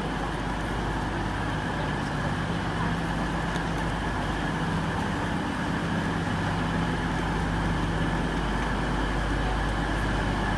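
Diesel train engines idling: a steady drone with a low hum and several held tones.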